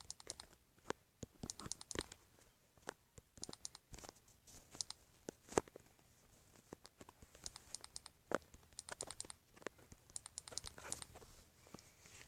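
Faint, irregular finger taps and clicks on a tablet's touchscreen, some in quick runs of several taps.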